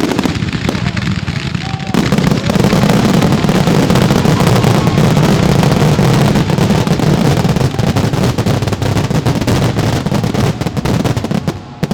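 Fireworks: a few separate bangs, then, about two seconds in, a dense barrage of shots and bursts that run together into a continuous rumble and crackle for about nine seconds, breaking up again into single bangs near the end.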